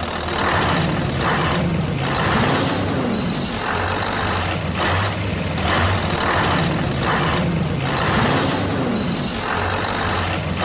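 Truck engine running with a low hum that rises and falls in pitch a couple of times, under a series of short hissing, rushing bursts about one a second.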